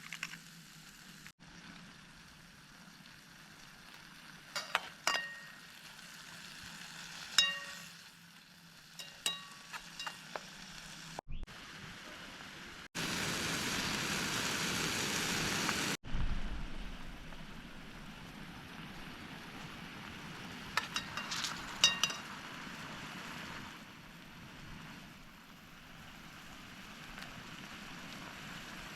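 Food sizzling and frying in a pan, with sharp metal clinks of a utensil against the pan now and then. The sizzle is louder for a few seconds midway.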